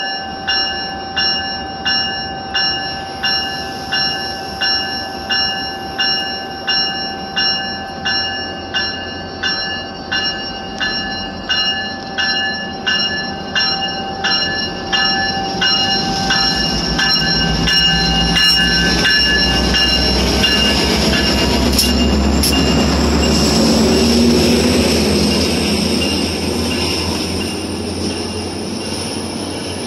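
A warning bell dinging about one and a half times a second, then a train passing through the station: a rumble builds about halfway in and the bell is drowned out. In the second half a thin, high wheel squeal rises slowly in pitch.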